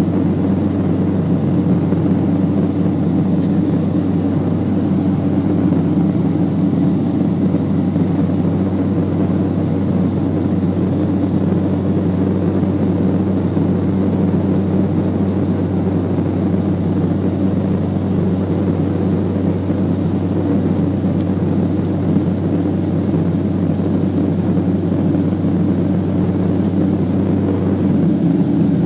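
Beechcraft 1900C twin turboprop's PT6A engines and propellers running steadily, a loud, even drone with a low hum and a few steady tones above it.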